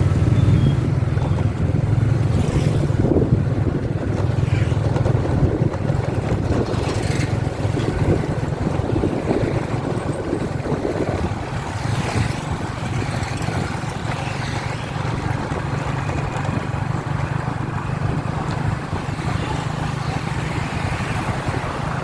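A vehicle's engine running steadily as it travels along a road, with wind buffeting the microphone.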